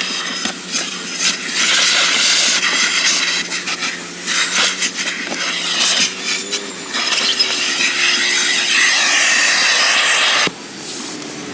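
Car wash equipment hissing in bursts over a steady machine hum, with a long hiss near the end that cuts off suddenly.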